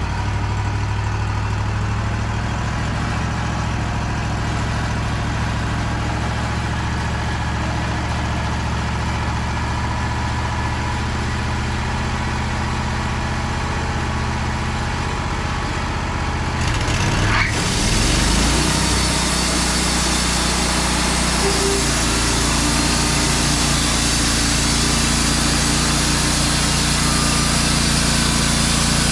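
Wood-Mizer band sawmill's engine running steadily at idle. About 17 seconds in it revs up and the sound turns louder and fuller as the band blade begins cutting through a pine log.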